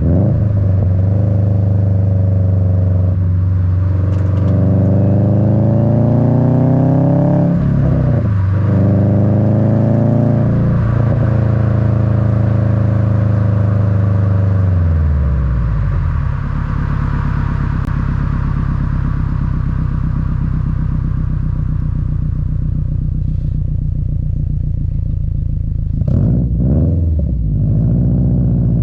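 Subaru WRX's EJ255 turbocharged flat-four rumbling through an Invidia N1 dual catback exhaust, heard up close at the tailpipes. It climbs in revs through the gears, with shifts about 3, 8 and 11 seconds in, then falls off over a few seconds to a steady low drone under road noise, with a brief dip and recovery near the end.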